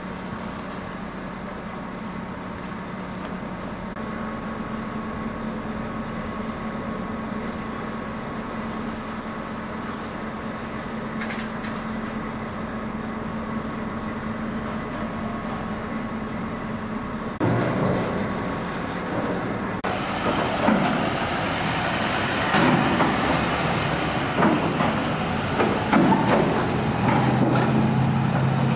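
Steady engine drone with a low, even hum. Partway through it cuts abruptly to louder, irregular clattering and knocking with a rumble underneath.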